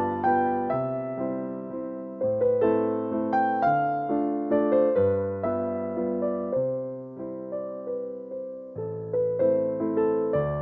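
Soft piano music: a gentle melody of single struck notes over sustained low chords, each note fading after it is struck.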